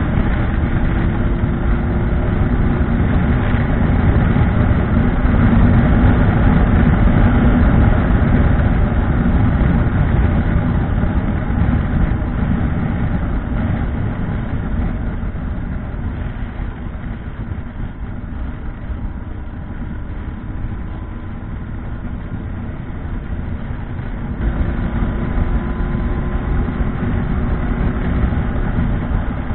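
Motorcycle riding on the road: a steady engine note under heavy low wind rumble, loudest in the first third, easing off in the middle and picking up again near the end.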